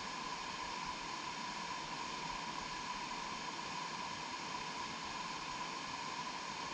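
Steady, unchanging hiss with a faint steady tone in the middle of it.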